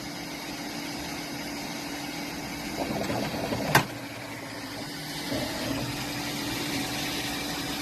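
3D printer running as it resumes a print: a steady fan hum with stepper motors whirring as the bed rises and the print head moves across. A sharp click comes a little under four seconds in.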